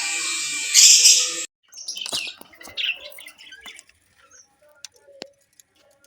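Lovebirds chirping and chattering in a dense flock chorus that cuts off abruptly about a second and a half in, followed by scattered single chirps and faint clicks.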